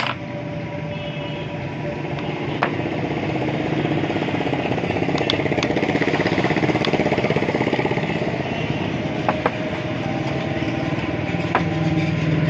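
An engine running steadily, a little louder from about three seconds in, with a few sharp metallic clicks.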